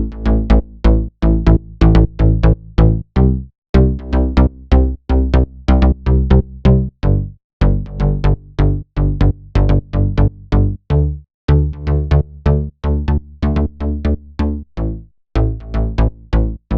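A synth bass line of a melodic house track playing on its own in a loop while it is being compressed. It is a string of short plucked notes with a deep low end, and it breaks off briefly about every four seconds.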